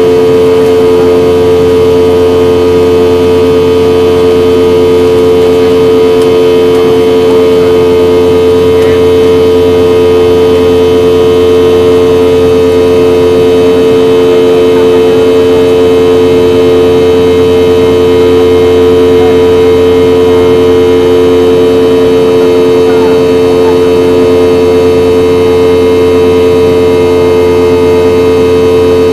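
Boeing 717-200's rear-mounted Rolls-Royce BR715 turbofan engines running at steady power, heard inside the cabin from a rear window seat: a loud, even drone with a strong steady hum that neither rises nor falls.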